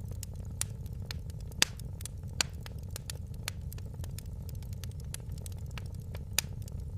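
Wood fire crackling in a fireplace: a dense run of small crackles over a steady low rumble, with a few sharper pops, the loudest about a second and a half in.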